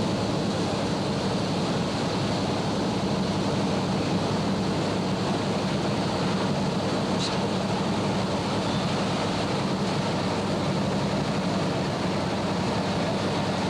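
Steady, unbroken noise of hurricane wind and heavy surf pounding the shore.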